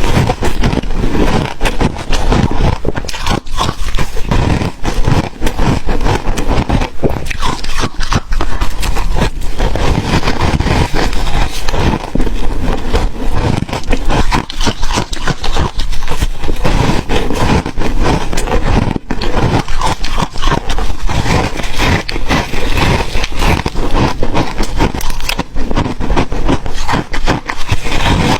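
Close-miked crunching of ice being bitten and chewed: dense, continuous cracking and crackling, loud and with no pauses.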